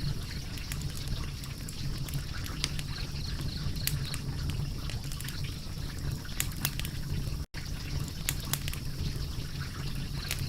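Wood fire burning: a steady low rumble with scattered sharp crackles and pops, cut by a split-second gap in the sound about seven and a half seconds in.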